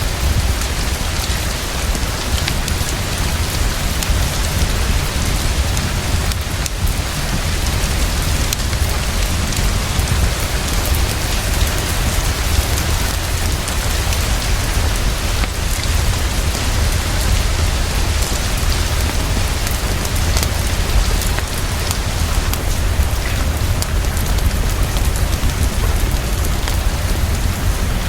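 Heavy, fast, steady rainfall with a deep, continuous rumble underneath.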